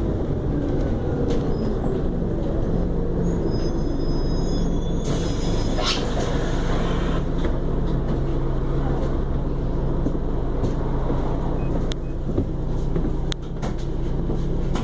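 Scania Enviro400 double-decker bus engine running steadily, its pitch falling at the start. About four seconds in a high thin tone sounds for two seconds, then a short air hiss.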